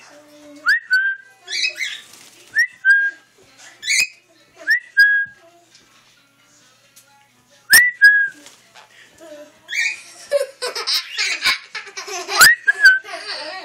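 A pet parrot whistling the same short phrase over and over, a quick rising note then a held note, about five times. Near the end, harsh squawking chatter from the birds fills in, with a few sharp clicks.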